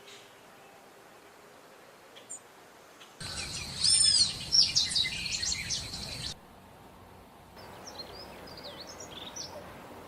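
Songbirds chirping and whistling in quick rising and falling notes. They come in two stretches that start and stop abruptly; the first, about a third of the way in, is the loudest.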